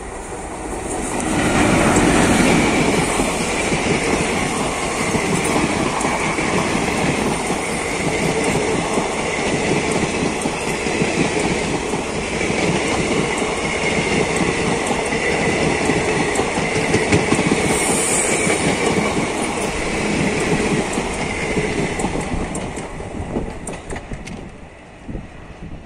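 Diesel-hauled passenger train passing close by: the locomotive's approach swells up in the first two seconds, then a long rake of coaches keeps up a steady wheel-and-rail rumble with clickety-clack over the rail joints. A brief high squeal comes about three-quarters of the way through, and the sound fades over the last few seconds as the end of the train draws away.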